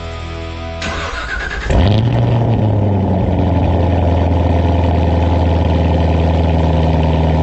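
Chevrolet Corvette C7 ZR1's supercharged V8 cranking over for under a second, catching with a quick rev flare, then settling into a loud, steady idle. Background music plays under the first two seconds and stops as the engine fires.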